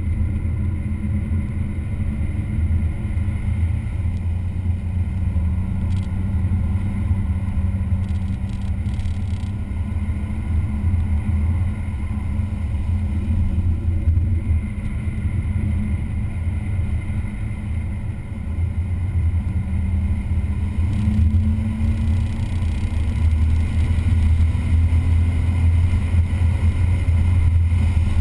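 A vehicle's engine running hard on a race track, a steady loud drone whose pitch slowly rises and falls as it speeds up and slows, with wind noise.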